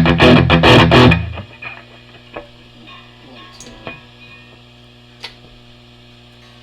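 Gibson Les Paul Custom with humbuckers through a Line 6 DT50 tube amp on a high-gain setting: about five loud strummed chords in the first second, then cut off. After that the amp hums steadily, with a few faint clicks.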